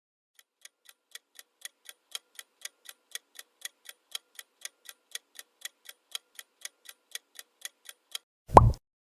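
Clock-ticking sound effect counting down the guessing time, about four ticks a second, alternating louder and softer and growing a little louder. Near the end, a short, loud pop sound effect.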